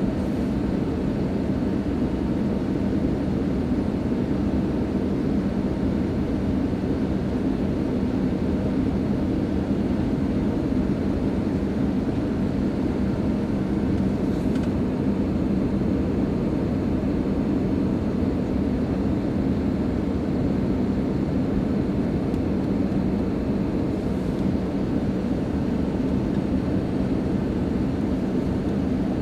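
Cabin sound of an Airbus A320 on final approach: its IAE V2527-A5 turbofan engines and the airflow make a steady, even rush with a constant low hum.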